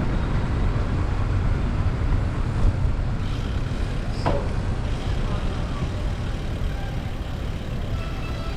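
Steady low rumble of wind and road noise while riding a bicycle, with a brief high chirp about four seconds in.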